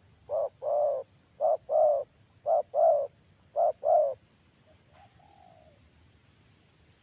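Spotted dove (tekukur) cooing: four paired coos, each a short note followed by a longer one, about a second apart. A fainter short coo follows about five seconds in.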